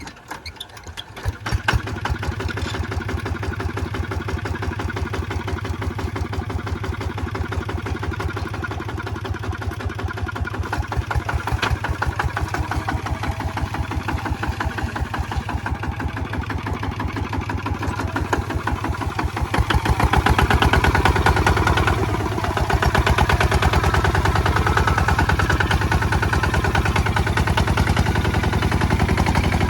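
Kubota ZT155 single-cylinder diesel engine picking up about a second in, then running steadily with a rapid, even chugging beat. It runs louder from about twenty seconds in, dips briefly, then carries on.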